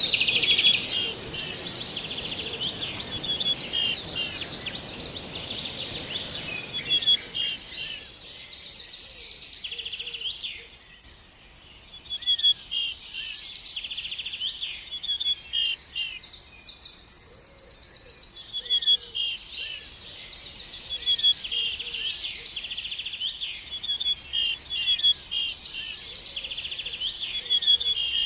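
Songbird singing in repeated phrases of quick chirps and rapid trills, with a short pause about eleven seconds in. A steady hiss runs under the song for the first seven seconds or so, then stops.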